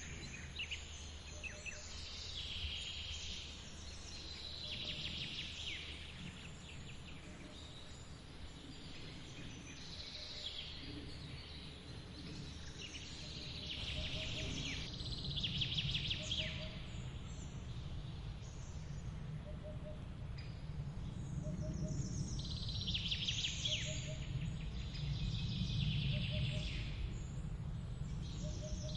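Forest birds singing in repeated bursts of high, sweeping calls every few seconds, over the steady low rumble of a waterfall's running water.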